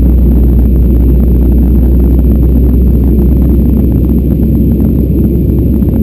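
Boeing 737-800 airliner climbing after takeoff, with its CFM56 jet engines and rushing air making a loud, deep, steady rumble, crackling a little on top.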